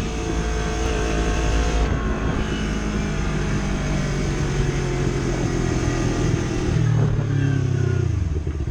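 Yamaha YZF-R3's parallel-twin engine running through an Akrapovic full-system exhaust with the baffle installed, as the bike is ridden. The engine note holds fairly steady, then changes pitch near the end.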